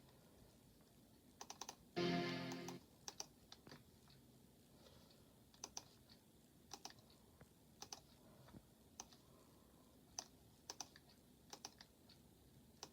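Faint, irregular clicks, singly and in quick twos and threes, after a brief snatch of music about two seconds in.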